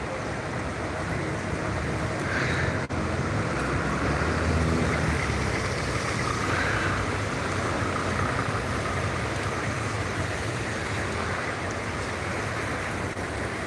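Heavy rain falling steadily in wind, an even rushing noise.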